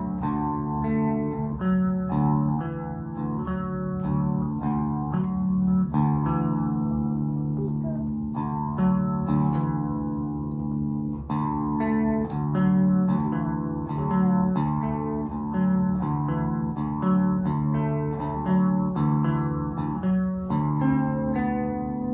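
Donner DMT-100 electric guitar being played in a loose jam: picked notes and chords, changing every half second or so, with no pause.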